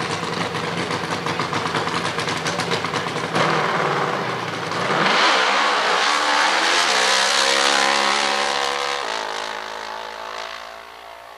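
Nitromethane-fuelled, fuel-injected Top Fuel drag motorcycle engine running with a fast, rough pulse. About three seconds in it suddenly gets louder and revs up, its pitch rising. It then runs loud for a few seconds and fades away as the bike pulls off down the track.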